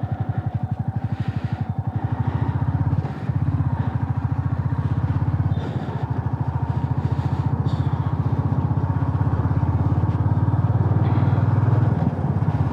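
Motorcycle engine running steadily under way, its firing pulses even, with brief dips in level about three seconds in and again near six seconds.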